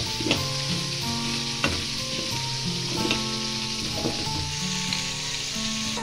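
Hot oil sizzling steadily as food fries, while a wooden spoon stirs elbow macaroni in an aluminium pot, knocking lightly against the pot a few times.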